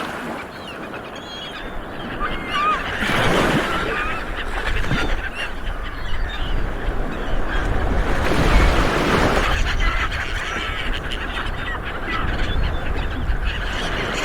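A flock of seabirds calling: many short, overlapping honking calls over a dense rushing background that swells twice.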